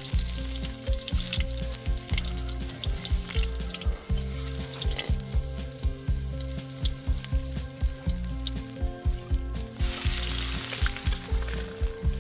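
Chopped ingredients sizzling and crackling in hot oil in a steel wok as they are stirred, the sizzle swelling near the end. Background music with a steady beat plays underneath.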